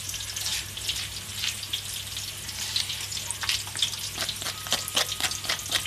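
Sliced shallots, garlic and onion frying in hot oil in a wok: a steady sizzle with crackles. From about halfway in, a quick run of short scrapes of a plastic spatula on a stone mortar.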